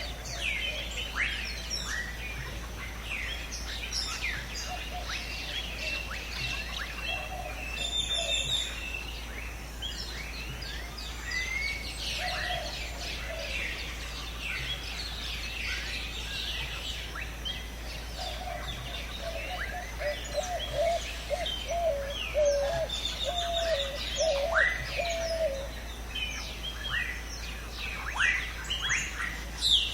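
A dense chorus of many birds chirping and calling at once, mostly quick high chirps and whistles. A lower, wavering call repeats several times in the second half.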